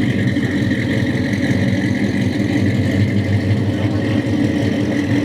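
A vehicle engine idling steadily, an even low hum that neither rises nor falls.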